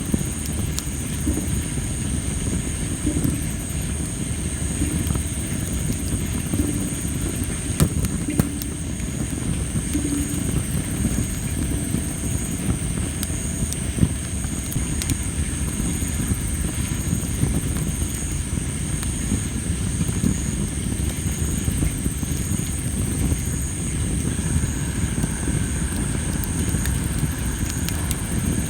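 Tree-of-heaven (Ailanthus) firewood burning in a fire pit: a steady rush of flame with crackling and a few sharp pops, the loudest about 8 and 14 seconds in, from wood the uploader suspects was still moist. Insects call steadily through it, one high even trill and one pulsing chirp.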